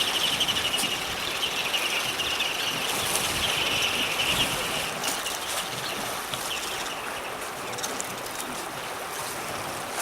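A flock of ruddy turnstones giving rapid, high twittering calls that fade out about halfway through, over a steady wash of wind and sea noise, with a few sharp clicks.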